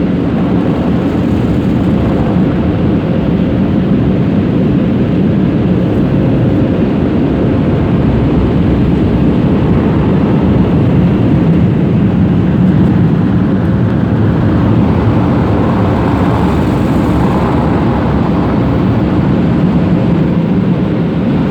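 Automatic car wash air dryers blowing hard over the car, heard from inside the car as a loud, steady rushing noise.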